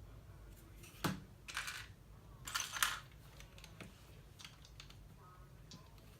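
Plastic LEGO pieces being handled: a sharp click about a second in, then two short bursts of rattling and clicking as pieces are rummaged through and fitted, the second the loudest.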